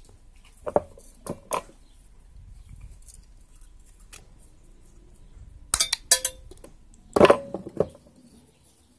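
Small metal tools and parts being picked up and set down on a workbench: a few scattered clinks and knocks, with a louder clattering group about seven seconds in that rings briefly.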